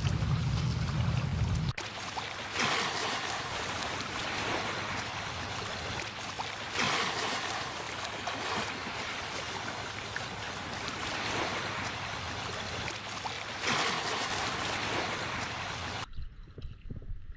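Surf washing onto a beach: a steady rush of water that swells louder every few seconds as waves come in. It begins after a low rumble cuts off about two seconds in, and near the end gives way abruptly to quieter soft low thumps.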